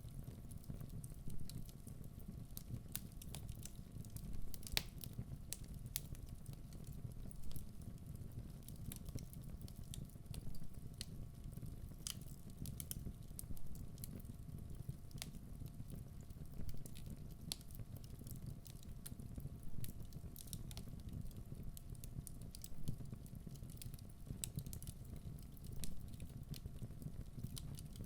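Wood logs burning in a fireplace: a steady low rumble of the flames with frequent irregular sharp crackles and pops from the burning wood.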